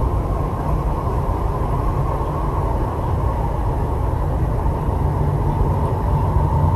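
Steady running noise inside the carriage of an MTR East Rail Line R-Train, a Hyundai Rotem electric multiple unit: a constant deep rumble from the wheels on the track, even in level throughout.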